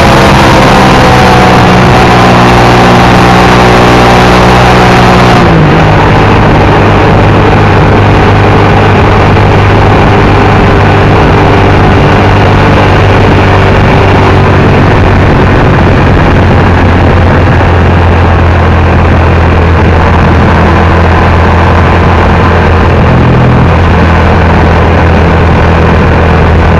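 Hyosung GT650's V-twin engine running at highway speed under a steady rush of wind noise. Its note sinks slowly, then drops suddenly about five and a half seconds in and holds steady at the lower pitch.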